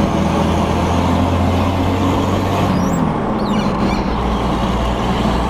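Turbocharged diesel engine of a 60 Series Land Cruiser running loud and deep through an open exhaust cutout under way. A little past halfway the engine note drops as the revs fall, with a brief falling whistle.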